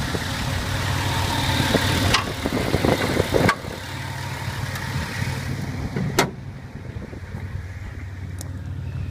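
2002 Dodge Caravan's 3.3-litre V6 idling steadily, running smoothly. A few sharp clicks are heard over it, and the whole sound gets quieter about three and a half seconds in.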